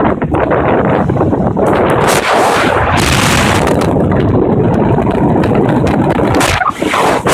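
Wind buffeting the microphone of a moving vehicle, with a dense run of sudden knocks and thumps. Louder gusts of hiss come about two seconds in and again near the end.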